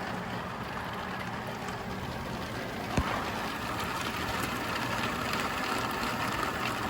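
A thunderstorm's steady rush of gusting wind and rain, growing a little louder after a single sharp knock about three seconds in.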